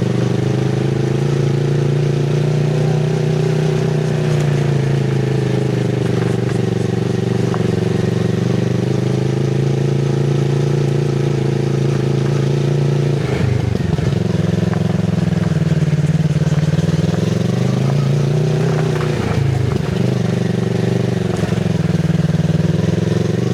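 Kawasaki Z650RS parallel-twin engine through an IXIL MK2 full aftermarket exhaust with the dB killer fitted, running at low revs as the bike is ridden slowly. Its note rises and falls gently with the throttle, with two brief breaks in the note, about halfway through and again a few seconds later.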